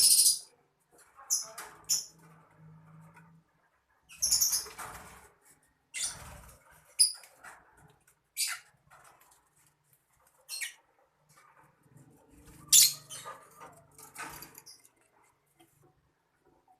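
Lovebirds giving short, shrill, scattered chirps and squeaks, about a dozen, along with rustling and scraping bursts.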